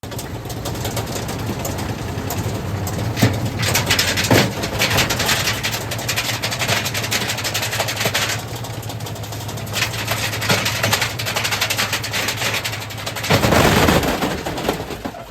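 Washing machine running with bricks in its drum: fast, continuous banging and rattling over a steady motor hum, growing louder for about a second near the end.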